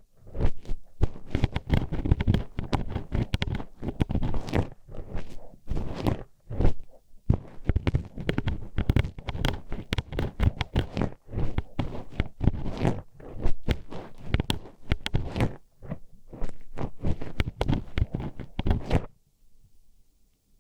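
Metal hairpin poked and scraped inside a binaural microphone's ear: a dense, irregular run of clacking taps and scratches, close and loud in the ear. It pauses briefly near the end.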